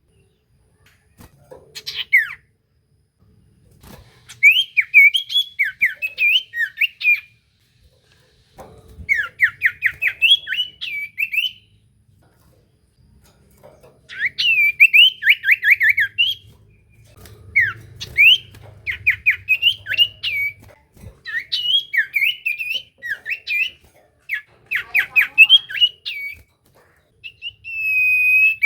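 A common iora (cipoh) singing hard, in phrases of rapid, sharp down-slurred whistles running into warbled notes, each phrase a few seconds long with short pauses between. Near the end comes one long, level whistle.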